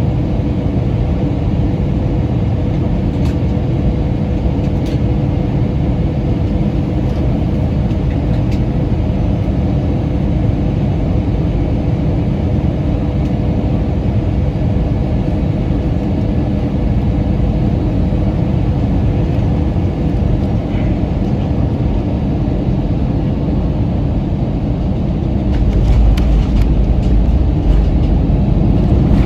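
Airbus A320 airliner on final approach: a steady drone of engines and rushing air with a faint steady hum. About 25 seconds in, a heavy low rumble starts as the wheels touch down and roll on the runway.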